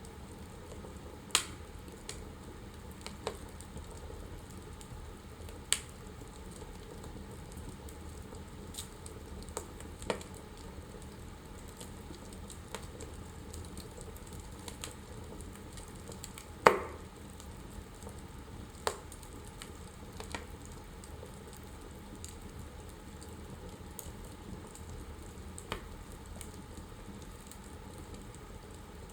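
Wood fire burning in a fireplace: a steady soft hiss with irregular sharp crackles and pops, one louder pop a little past the middle.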